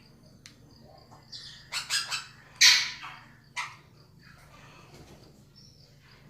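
Pet parrots calling: a run of short calls, bunched in the middle and loudest about two and a half seconds in, then fewer and fainter.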